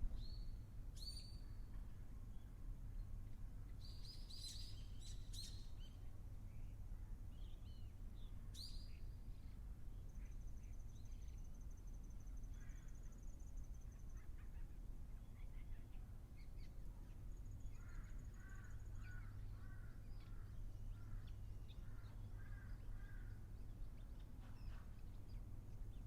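Wild birds calling over a low steady rumble. There are several short, sharp high calls in the first nine seconds, then a thin steady trill, then a run of lower, quickly repeated calls in the second half.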